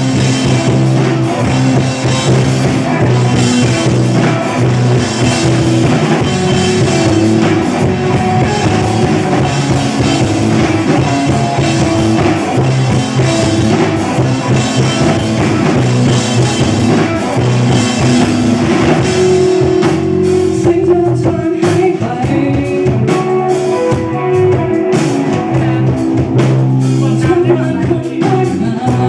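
Rock band playing live, with drum kit, guitars and singing. The high cymbal wash thins out about two-thirds of the way through while the drums and guitars carry on.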